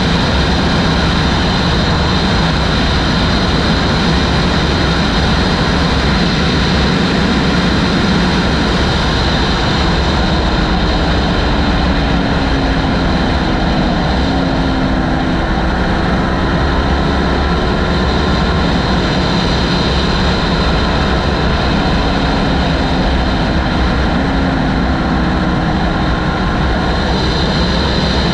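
Heavy wind noise blasting across the microphone of a moving motorcycle. The engine is faintly audible underneath, its note sliding gently up and down as the throttle changes.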